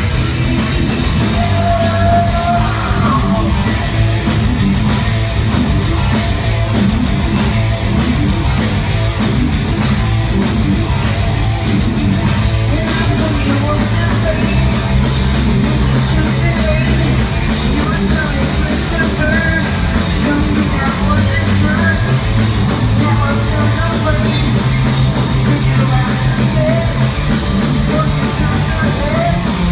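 Heavy metal band playing live: distorted electric guitars, bass and drums in a continuous full-band passage.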